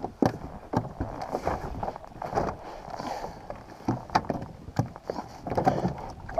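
Irregular knocks, taps and rustling of things being handled on a kayak, at moderate level with no steady rhythm.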